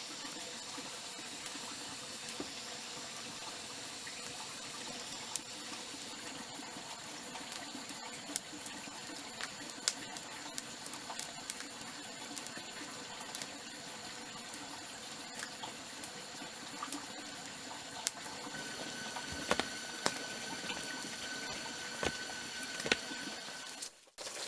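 Steady rush of running water, with scattered light clicks and knocks.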